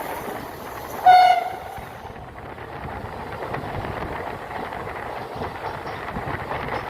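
Passenger train running, with the steady rumble and rattle of wheels on rails. A short, loud train horn blast sounds about a second in.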